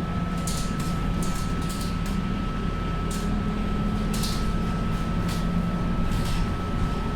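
Scania K230UB city bus running, heard from inside the passenger cabin: a steady low engine drone under a thin constant high whine, with short bursts of hiss coming and going every second or so.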